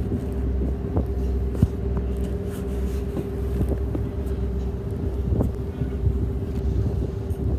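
Steady engine drone with a constant hum and scattered light knocks and clicks, from a moving vehicle.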